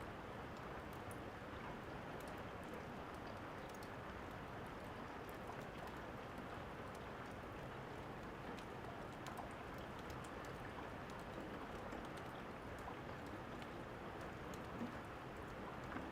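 Steady rain with the scattered small crackles and pops of a fireplace fire over it.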